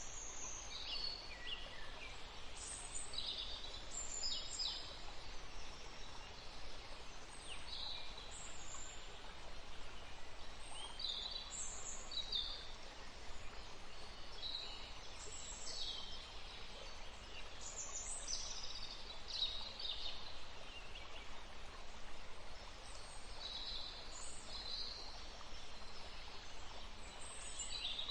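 Birds chirping: many short, high calls and chirps come one after another, scattered throughout, over a steady low background rumble.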